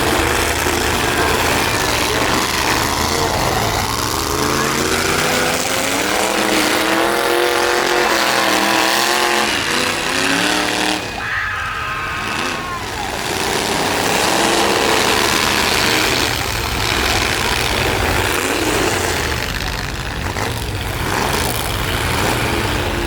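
Truck engines running and revving at a demolition derby over a constant noisy din. About halfway through, one engine climbs and falls in pitch.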